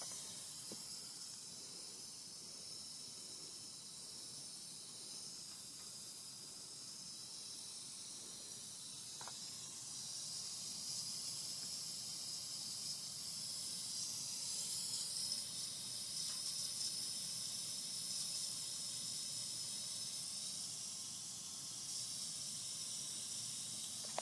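A steady high-pitched hiss that grows a little louder about ten seconds in.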